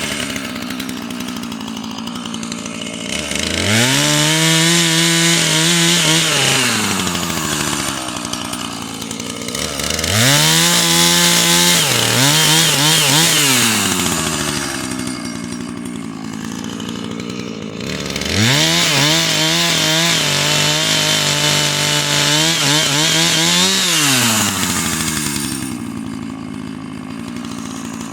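Husqvarna two-stroke chainsaw idling and revving to full throttle three times, each run lasting a few seconds, its pitch wavering under load as it cuts wood into firewood lengths.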